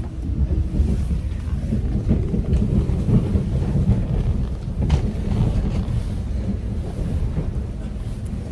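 Wind buffeting the microphone: an uneven low rumble that swells and dips throughout.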